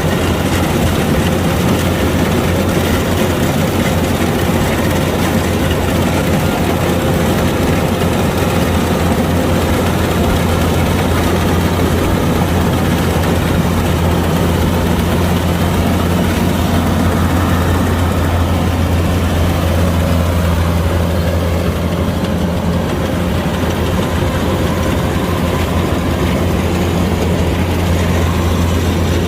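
Kubota DC-105X rice combine harvester's diesel engine running steadily, a strong constant low drone under a broad mechanical clatter and whir.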